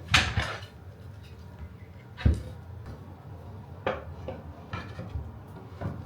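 Knocks and clinks of a raised pet food bowl being handled and set in place: a rustling scrape at the start, one sharp knock a little over two seconds in, then several lighter knocks.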